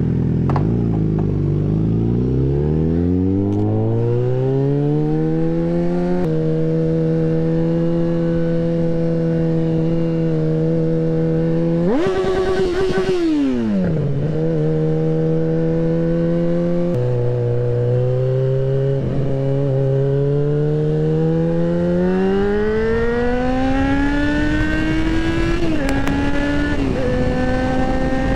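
Yamaha XJ6N/FZ6R motorcycle's 600 cc inline-four engine under way, accelerating through the gears: revs climb and the pitch steps down at each of three upshifts, about six, seventeen and twenty-six seconds in. Around twelve seconds in the revs flare up sharply and fall back.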